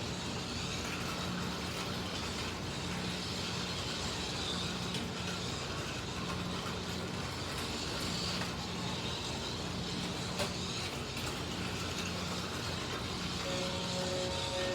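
Electric slot cars racing round a track: a steady whir of small motors and wheels on the track, with a low hum that swells and drops every second or two as the cars go round.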